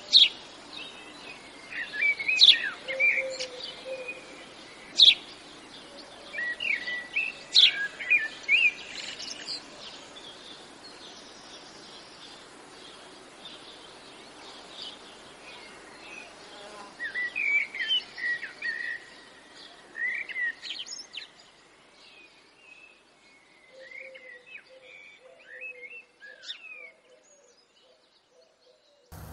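Birds chirping and calling in short, sharp notes with quick pitch sweeps, busy in the first few seconds and again around the middle, sparser toward the end.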